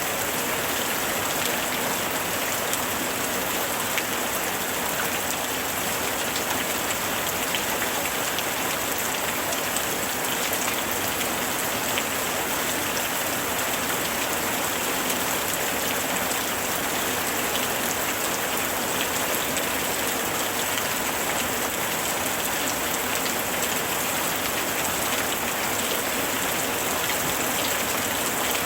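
Steady summer rain falling, an even hiss of rain with many fine drop ticks on surfaces.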